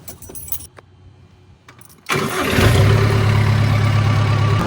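A few faint clicks, then about two seconds in a tractor engine turns over and catches, settling into a steady run.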